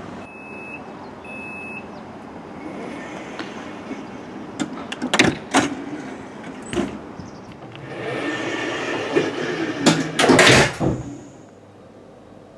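Passenger train's warning beeps sound twice, then the sliding doors work with clunks and knocks, ending in a loud rushing hiss and heavy thuds as they close.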